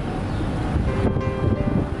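Wind buffeting the microphone of a camera filming from a moving car: a heavy, uneven low rumble, with a few steady held tones coming in about a second in.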